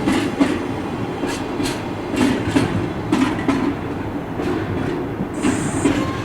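Freight train wagons rolling over rail joints: a steady rumble with paired clickety-clack beats recurring about once a second. A brief high-pitched squeal comes about five and a half seconds in.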